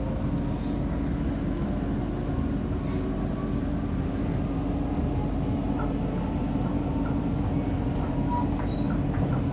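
Interior running noise of a Class 458 electric multiple unit travelling between stations: a steady rumble of wheels on rail with a constant low hum.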